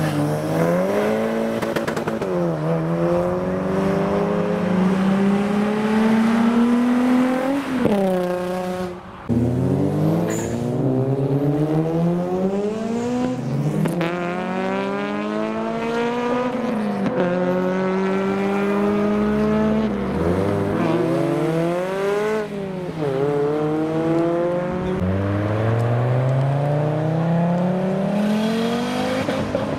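Modified road cars accelerating hard past one after another, each engine note climbing in pitch and dropping back sharply, over and over through the whole stretch.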